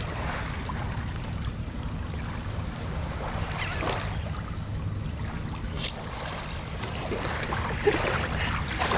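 Steady low outdoor rumble with faint scattered higher sounds, and one short sharp click about six seconds in.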